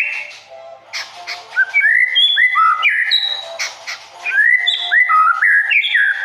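A songbird singing a varied run of clear whistled notes, many of them short rising glides, in two phrases with a brief pause between them.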